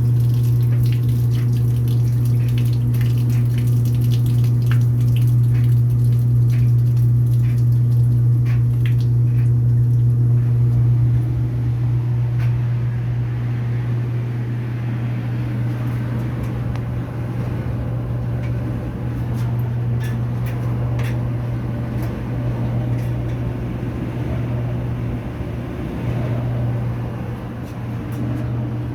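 Washing machine drain pump running with a steady low hum while water splashes and drips; the washer's drain is clogged, so the water backs up and floods the floor. The hum steps down a little about a third of the way in.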